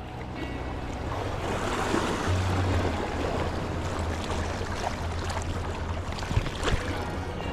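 Sea waves washing against the shore, with wind buffeting the microphone as a low rumble. A few sharp clicks sound near the end.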